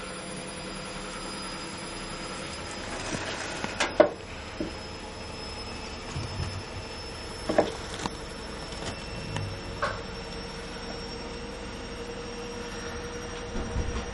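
A few sharp knocks and clatters, the loudest about four seconds in and another near the middle, over a steady hum with a faint high whine.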